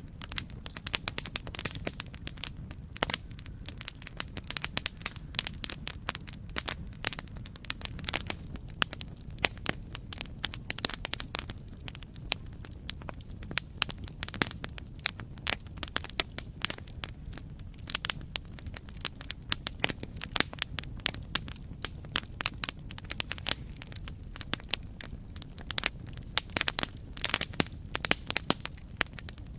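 Campfire crackling: dense, irregular sharp pops and snaps of burning wood over a steady low rumble of the flames.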